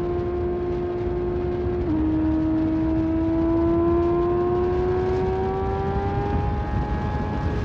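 Motorcycle engine running at steady revs under a low wind rush. Its pitch dips slightly about two seconds in, then climbs slowly as the bike speeds up.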